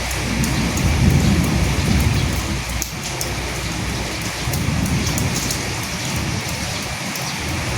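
Steady rain falling, with individual drops ticking, and a low rumble of thunder swelling about a second in and again around five seconds in.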